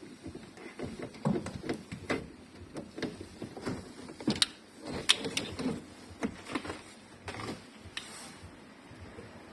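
Irregular light clicks and knocks, several a second, of hands and tools working on a car's plastic interior trim and sunroof parts, with two sharper knocks about halfway through.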